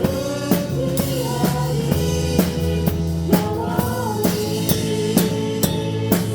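Live praise band music led by a drum kit playing a steady beat of about two hits a second, kick and snare with cymbals, over sustained band chords and a moving melody line.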